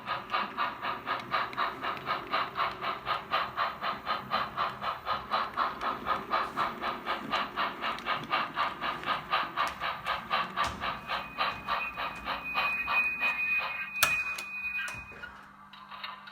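Sound-equipped model Consolidation (2-8-0) steam locomotive chuffing at an even pace, about five chuffs a second. A steady high tone joins late on, a sharp click sounds about 14 seconds in, and the chuffing then dies away.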